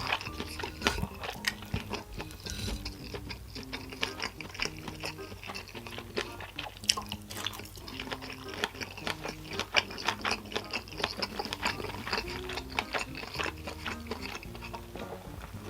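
A person eating, with many short crunchy and wet mouth clicks from chewing, over quiet background music with a repeating low melody.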